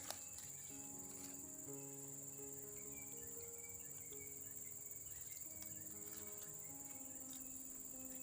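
Crickets chirring in a steady high drone, with soft background music of slow, held low notes.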